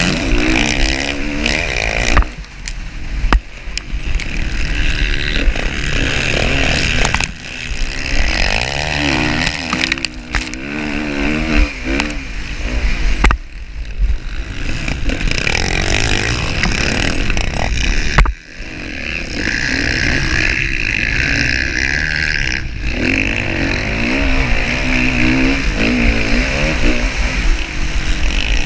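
Motocross dirt bike engine racing, revving up and down with the throttle, with a few short sharp drops where the throttle is chopped.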